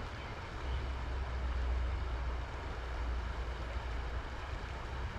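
Wind buffeting the microphone, a low rumble that swells about a second in, over a steady outdoor rush.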